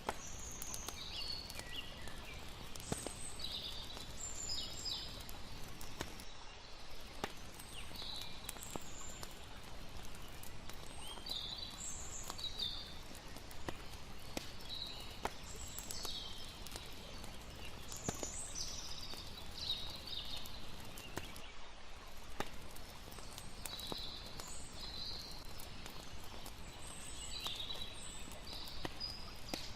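Layered night-nature ambience: irregular high chirping calls over a steady low wash of water, with frequent sharp crackles of a campfire.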